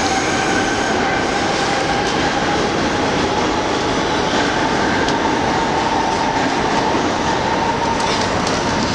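R68 New York City subway car running on the track, a loud steady rumble and rattle of wheels and car body with a thin whine that rises slowly in pitch.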